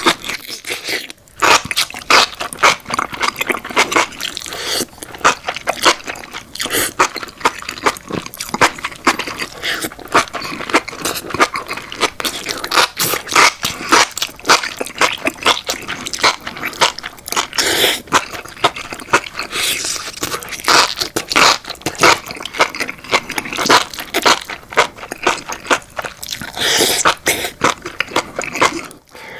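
Close-miked eating of spicy enoki mushrooms: rapid chewing, crunching and wet smacking mouth sounds.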